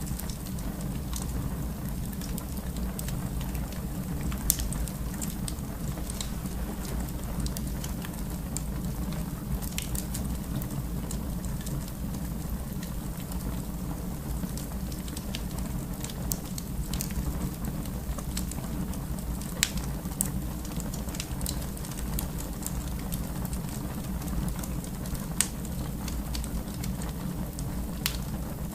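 Wood fire burning in a fireplace: a steady low rumble of flame with scattered sharp crackles and pops, a few of them louder.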